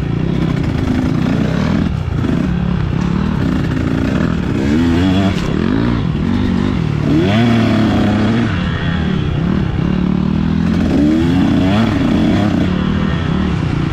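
Dirt bike engine under way, its pitch rising and falling again and again as the throttle is opened and closed.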